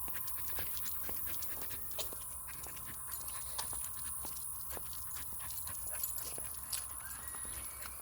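A pet dog panting, with many small irregular clicks and ticks as it moves about.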